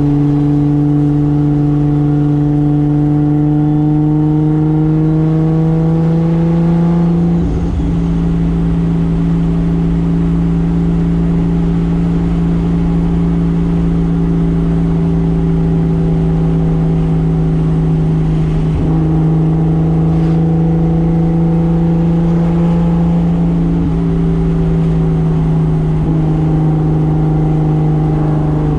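Single-turbo 2JZ inline-six engine of a 1995 Toyota Soarer running under way at steady mid revs. The pitch climbs slowly for about seven seconds, dips slightly, then holds fairly even with a few small changes in revs later on.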